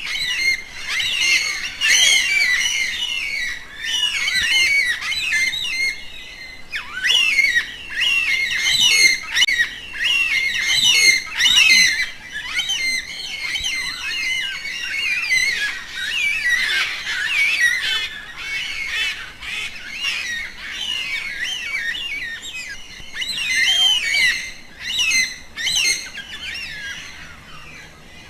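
A dense chorus of many birds calling at once: short, rapid, high-pitched chirps and warbling whistles overlapping without a break, swelling and fading in loudness.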